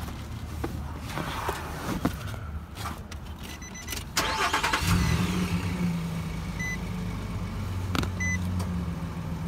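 Footsteps and scuffs, then a car engine is cranked about four seconds in and catches, settling into a steady idle. A short electronic chime beeps every second and a half or so while it idles, and one sharp knock comes near the end.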